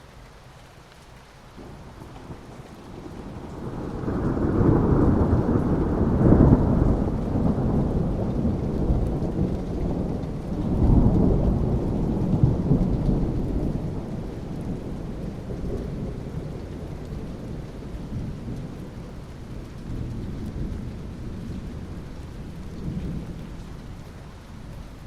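Thunder rolling over steady rain: a long low rumble that builds a few seconds in, swells again around eleven seconds, then slowly dies away under the rain.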